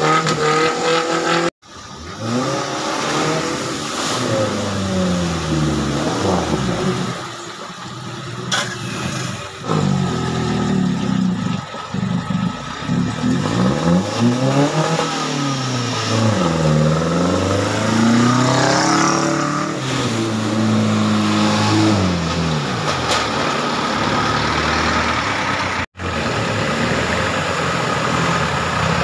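Off-road 4x4 engines being revved hard on a rough trail, the engine note climbing and falling again and again as the throttle is blipped and held. The sound drops out briefly twice.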